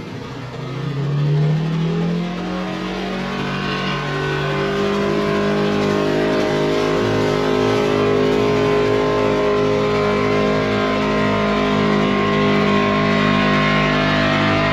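Polaris Ranger Northstar side-by-side's engine revving up about a second in, then held at steady high revs.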